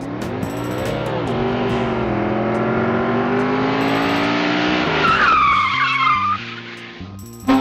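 A car engine revving, its pitch rising and falling about a second in and then climbing slowly, followed by a brief tire squeal about five seconds in. The sound cuts off suddenly near the end.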